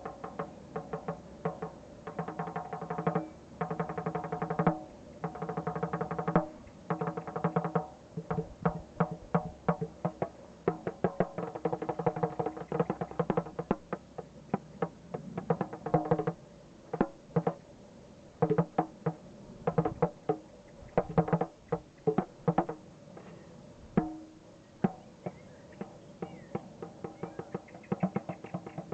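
Hand drumming on a pitched percussion instrument: quick runs of strokes that ring with a few fixed tones, broken by short pauses.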